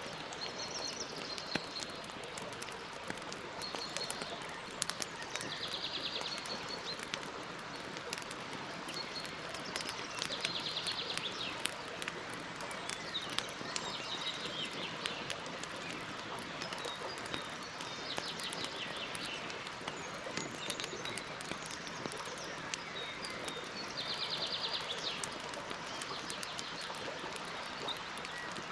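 Wood campfire burning with a steady hiss and frequent small crackles and pops, while birds chirp around it, with a rapid buzzy trill repeated four times, roughly every five to seven seconds.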